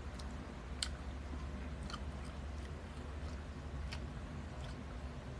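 Someone chewing mango slices close to the microphone, with a handful of short, wet mouth clicks scattered over a low steady hum.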